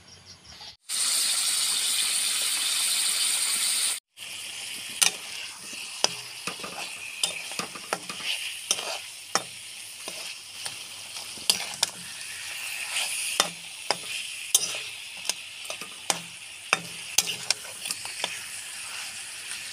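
Catfish pieces in chili-spice paste sizzling in hot oil in a blackened wok: a loud steady sizzle for about three seconds, then, after a brief break, a quieter sizzle with a metal spatula scraping and clinking against the pan as the fish is stirred.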